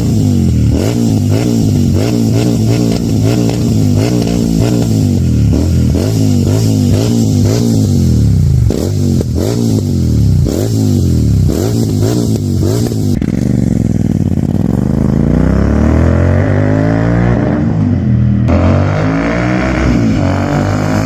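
Royal Enfield Super Meteor 650's parallel-twin engine revving through an AEW aftermarket exhaust. It opens with a run of quick throttle blips, about one a second, then a longer rev climbs and drops back, and another rev rises near the end.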